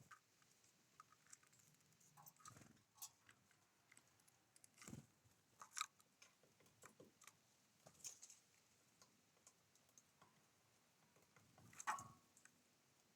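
Small wild birds at a feeder: faint, scattered short taps and clicks of beaks pecking at seed, a couple of them sharper, about six seconds in and near the end.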